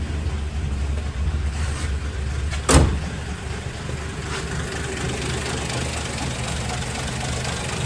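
Plymouth Belvedere's six-cylinder engine idling steadily, running a little low, just after starting on a fresh set of ignition points. A single sharp click cuts through about three seconds in.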